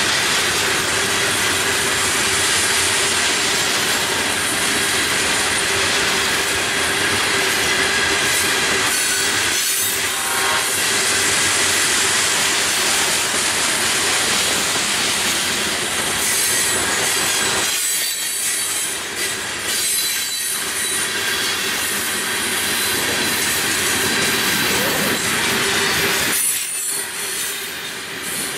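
Florida East Coast Railway freight cars, hoppers and boxcars, rolling past close by: steady wheel-on-rail rumble with clacking and a thin, steady wheel squeal.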